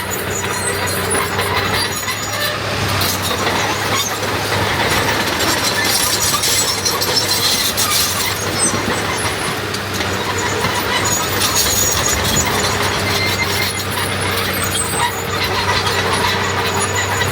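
Heavy diesel earthmoving machinery running steadily under load, with metallic clatter and scattered high-pitched squeaks over the engine.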